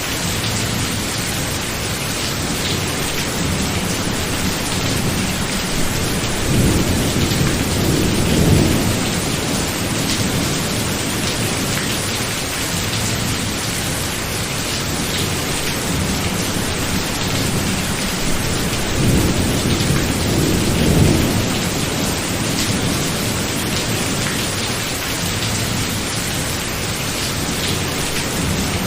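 Thunderstorm: steady heavy rain hissing, with low rolls of thunder twice, about six seconds in and again near the middle.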